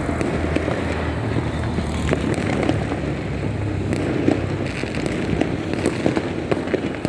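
Dense crackle of many fireworks and firecrackers going off at once, a near-continuous stream of distant pops. There is a sharper bang about four seconds in.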